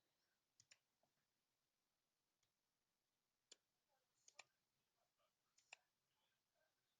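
Faint clicks of a computer mouse, several in quick press-and-release pairs, scattered through near silence.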